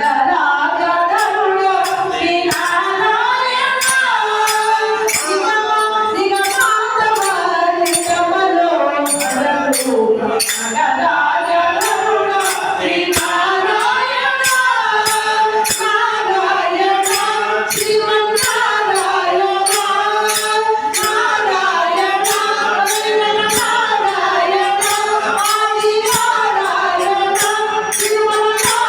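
Devotional bhajan music: a gliding melody over a steady held note, with tambourine jingles keeping an even beat about twice a second.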